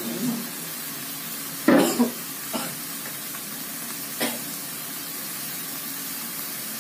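Water spinach sizzling steadily as it stir-fries in an aluminium wok over a gas flame. Three sharp knocks come about a second apart in the first half, the first the loudest.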